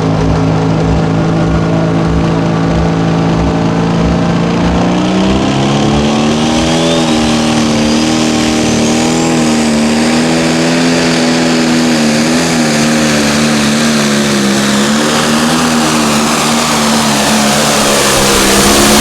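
Diesel pulling tractor's engine running hard at high revs. Its pitch climbs about five seconds in, then holds with small wavers, and a faint high whine rises soon after.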